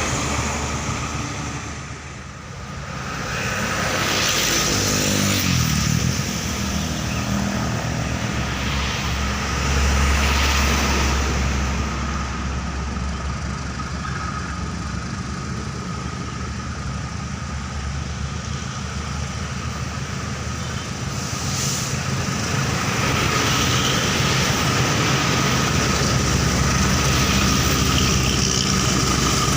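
A heavy engine running steadily with a constant thin whine above it, its pitch rising briefly about five seconds in.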